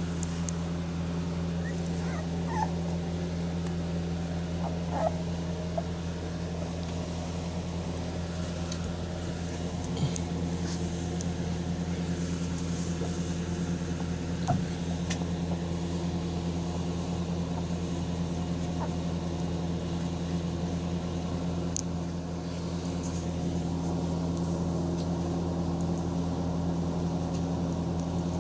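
A few brief, faint squeaks from 25-day-old Presa Canario puppies, over a steady mechanical hum.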